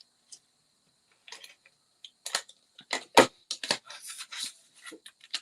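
Cardstock being handled and stuck with a tape-runner adhesive: a string of short clicks, taps and brief rasps, the sharpest about three seconds in.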